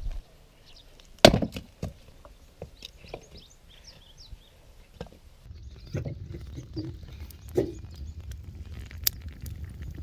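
Firewood being chopped: one hard chopping strike about a second in, then several lighter knocks, on a knotty piece that splits poorly. Faint bird chirps are heard early on, and a low rumble runs through the second half.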